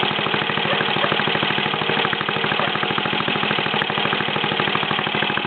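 Tractor engine running steadily, with a fast, even firing pulse.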